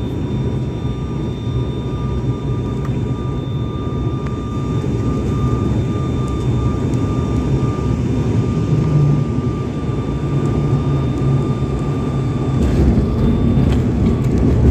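Steady airliner cabin noise: a dense low engine and airflow rumble with a faint steady high whine, the rumble growing heavier near the end.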